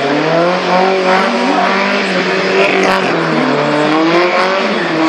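Alfa Romeo Giulia Sprint GT's tuned two-litre four-cylinder engine revving hard through a gymkhana run, its pitch rising and falling several times as it accelerates and backs off between the cones.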